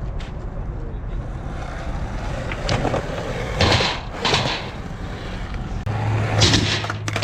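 Skateboard wheels rolling on a ramp, with a few scraping clacks of the board as the rider pumps and kick-turns, a low rolling hum growing louder near the end.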